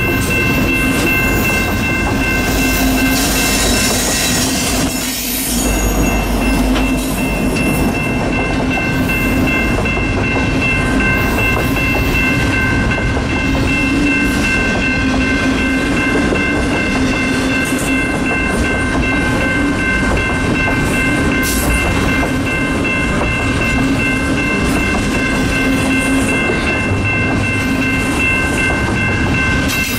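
A train passing, with steady rolling noise from its wheels on the rails and several steady high-pitched tones held throughout.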